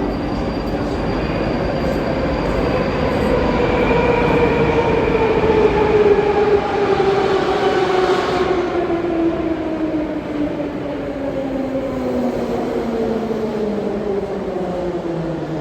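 Moscow Metro train running through the tunnel: a loud rumble with the electric traction motors' whine, several tones falling slowly and steadily in pitch, loudest about halfway through.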